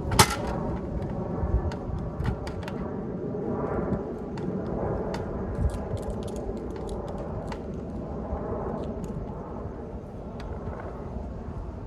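Scattered sharp metal clicks and taps as a license plate and its frame are handled and screwed onto a truck, over a steady low hum.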